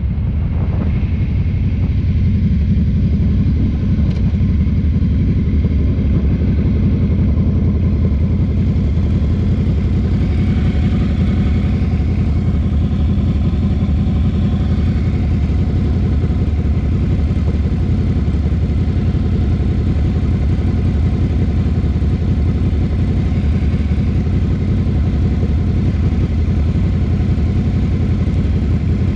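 Ducati café racer motorcycle engine running steadily while riding at a low, even pace, a continuous low rumble.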